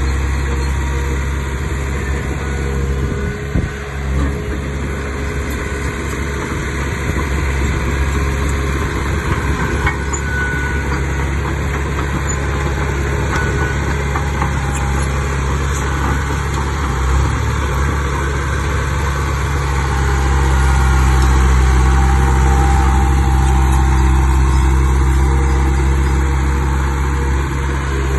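Diesel engine of heavy earthmoving machinery running steadily, growing somewhat louder about twenty seconds in.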